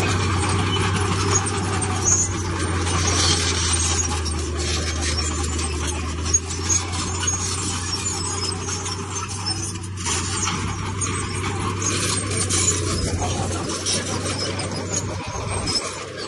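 Komatsu D31P bulldozer working: its diesel engine runs at a steady low drone while its steel tracks squeal and stone scrapes and crackles under the blade.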